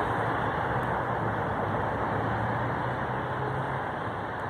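Train rumbling past on the line and fading as it moves away, with a steady low engine hum that drops out near the end.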